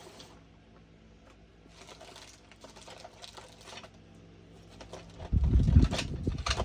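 Faint rustling and handling of small plastic bags and packets over a low steady hum. Near the end come loud, low thumps and rumbling, as of things being knocked against the table or the microphone.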